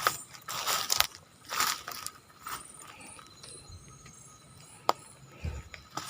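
Footsteps crunching irregularly on dry ground litter, fading after about three seconds, with a single sharp click about five seconds in.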